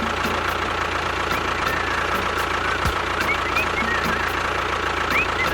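Tractor engine idling steadily, with a faint regular knock.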